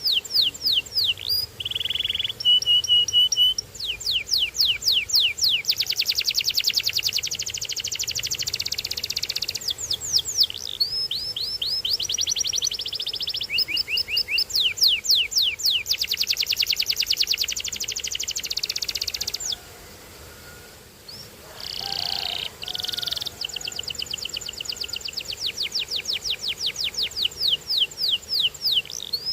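Domestic canary singing a long song of fast trills, runs of rapid repeated falling notes, with a few short steady whistled notes. There is a brief pause about two-thirds of the way through.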